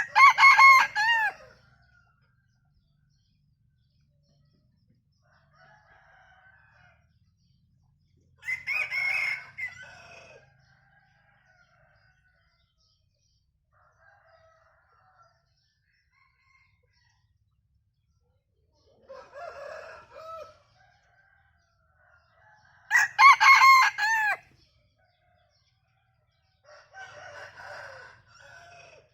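Bantam rooster crowing in short, broken crows that sound like laughter. Three loud crows come at the start, about 9 seconds in and about 23 seconds in. Fainter crows from other roosters answer in between.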